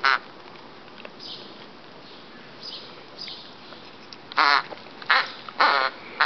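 Squeaker in a plush pheasant dog toy being squeezed by a puppy's bite, giving short wavering squeaks: one at the start, a few faint ones in the middle, then four loud squeaks in quick succession near the end.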